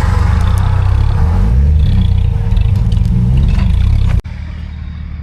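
Off-road 4x4 engine revving under load, its pitch rising and falling, with a few sharp knocks. It cuts off abruptly about four seconds in to a quieter engine running steadily.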